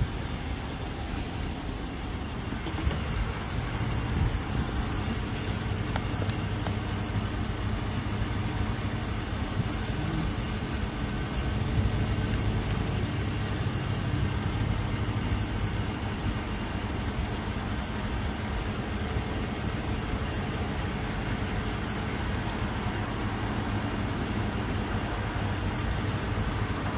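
A motor vehicle's engine idling steadily, a low hum with an even rumble of background noise.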